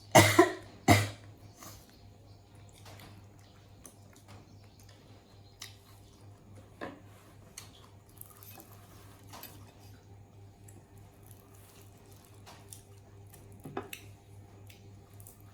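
Two loud, short knocks within the first second, then scattered faint clicks and ticks over a steady low hum.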